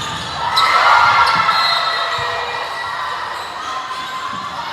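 Basketball bouncing on a hardwood gym floor during play, with a few sharp knocks. Crowd noise in the large, echoing gym swells about half a second in, then eases off.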